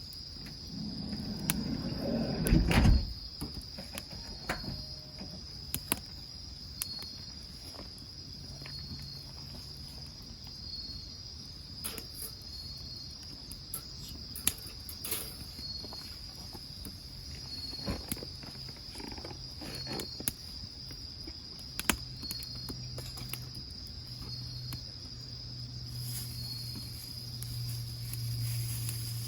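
Insects keep up a steady, high-pitched pulsing trill, while a wood fire gives sporadic sharp pops and crackles. About two to three seconds in there is a louder rustling knock, and near the end a low hum grows in.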